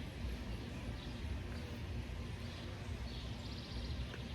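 Outdoor ambience: a steady low rumble on the phone's microphone, with faint high chirping now and then.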